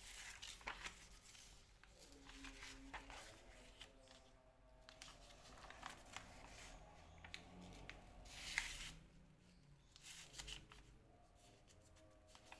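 Paper being handled and folded by hand: soft rustles and crinkles come and go, with a sharper crease stroke about two-thirds of the way through. Faint background music plays underneath.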